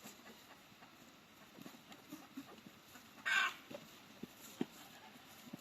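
Domestic chickens clucking softly, with one brief, louder rasping burst a little past halfway and a few short soft ticks after it.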